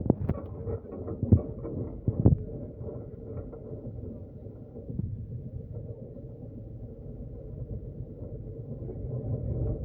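Steady low rumble of a road vehicle running, with three loud knocks in the first two and a half seconds.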